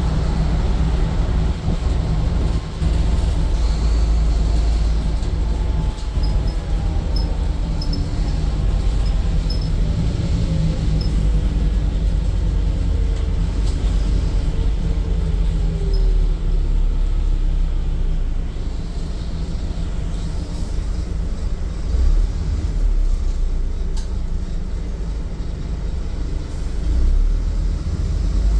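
Scania N230UD double-decker bus heard from on board: its five-cylinder diesel and drivetrain running with a steady low rumble, and a whine that falls slowly in pitch over about ten seconds. A single sharp click comes near the end.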